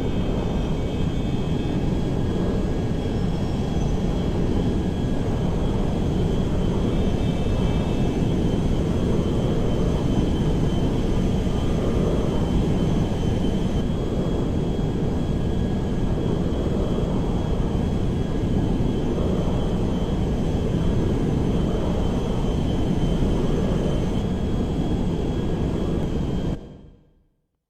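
Steady, unbroken drone of an airplane, with a few faint high tones over it, fading out near the end.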